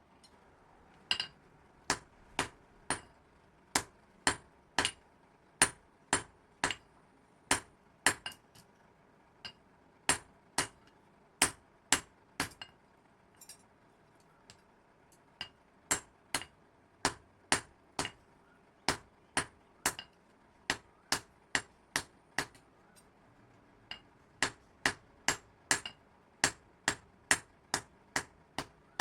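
Hand hammer striking metal in a steady series of sharp, ringing blows, about two a second. The blows pause briefly around halfway and again shortly before the end.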